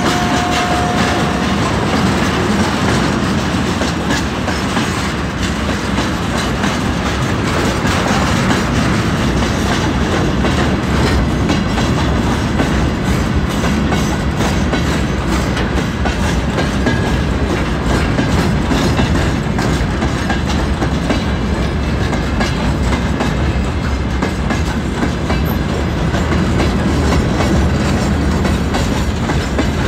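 Freight train rolling past close by, its tank cars and open gondola wagons clattering steadily over the rail joints with a continuous wheel and bogie rumble.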